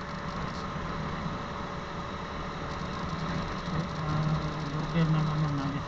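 Small single-cylinder underbone motorcycle engine (TVS Neo XR110) running steadily under way, with road and wind noise. It grows louder for the last couple of seconds.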